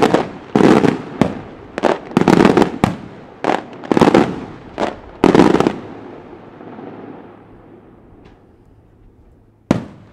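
Aerial firework shells bursting: a rapid run of sharp, loud bangs for about the first five seconds, trailing off into a fading rumble, then one more bang near the end.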